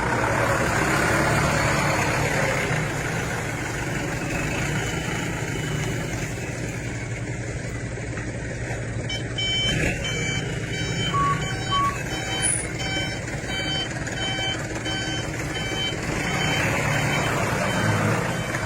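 A heavy truck's engine running steadily, and from about halfway through a reversing alarm beeping about twice a second for several seconds.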